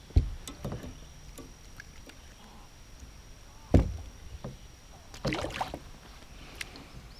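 A few hollow knocks and thumps: a sharp one just after the start and another a little before four seconds in, with a short clattering scuffle around five seconds in. A faint steady high-pitched tone runs underneath.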